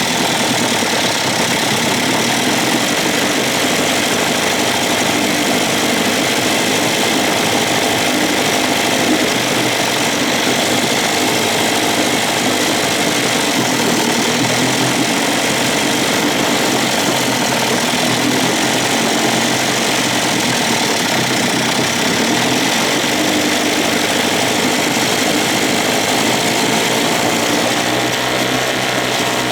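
1956 Evinrude 7.5 hp two-stroke twin outboard motor running steadily while its high-speed mixture is dialed in; the owner thinks the carburetor sounds a little dirty.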